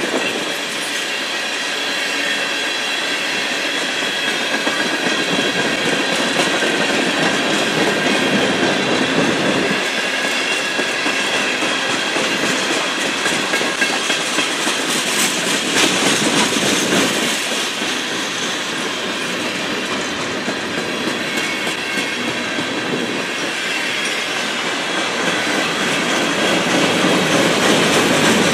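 Freight train cars (tank cars, then a centerbeam flatcar and covered hoppers) rolling past, their steel wheels running on the rails in a steady rumble and clatter. Thin, high ringing tones sound over the rolling noise through about the first half.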